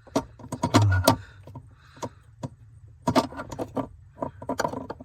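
Rapid clicks, knocks and rattles of a remote start module and its mounting bracket being handled and pushed onto a stud under a car's dashboard, in clusters, with a dull thump about a second in.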